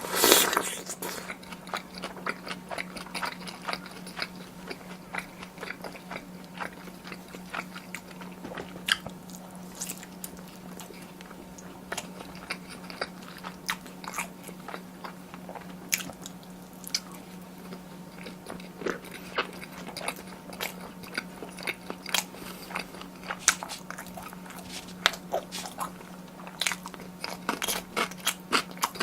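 Close-miked eating of tteokbokki with glass noodles: repeated bites and chewing, with many short sharp mouth clicks and a louder burst just after the start. A steady low hum runs underneath.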